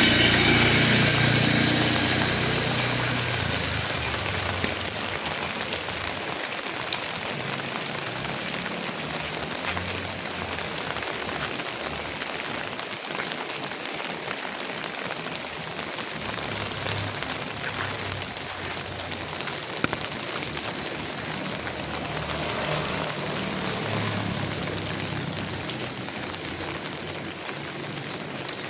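Heavy rain falling steadily on the ground and nearby surfaces, with scattered sharper drop ticks. A louder swell with a low rumble fades away over the first few seconds.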